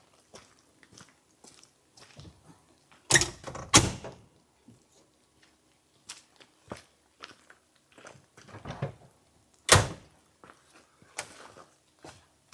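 Scattered small clicks and rustles of things being handled, with a pair of loud knocks about three seconds in and another sharp thump near ten seconds.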